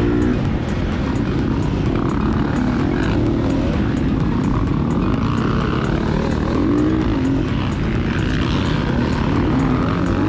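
Gas Gas EX250F four-stroke single-cylinder dirt bike engine under race load, revving up and down repeatedly as the rider accelerates and shifts, with heavy rushing noise from riding at speed.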